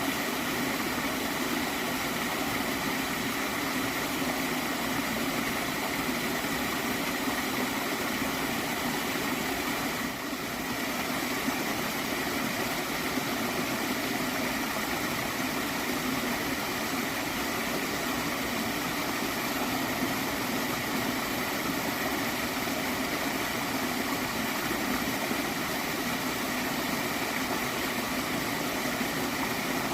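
Water in a gently flowing stream, a steady continuous rush with soft gurgling, dipping briefly about ten seconds in.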